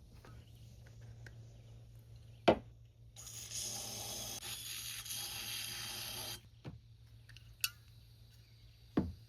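Aerosol spray can sprayed in one steady hiss lasting about three seconds, starting and stopping abruptly. A few sharp clicks and knocks of tools or parts come before and after it.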